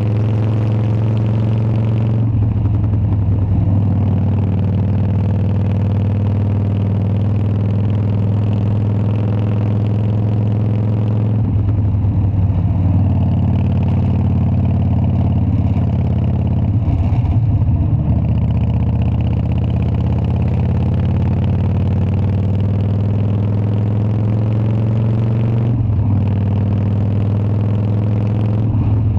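Harley-Davidson Dyna's V-twin engine running steadily. Its note changes briefly about two, twelve, seventeen and twenty-six seconds in.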